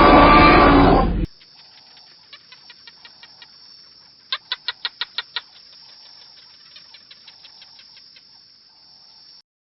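A loud animal roar cuts off about a second in. Then a small bird chirps in quick runs, loudest in a burst of about seven sharp chirps near the middle, and the sound stops shortly before the end.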